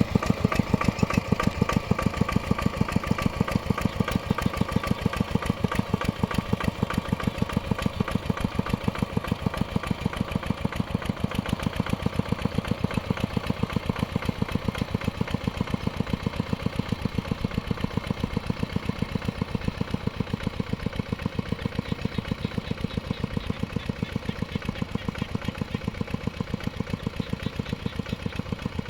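Mini tractor engine running steadily while plowing a field, with a rapid, even beat of firing pulses that eases off slightly in loudness towards the end.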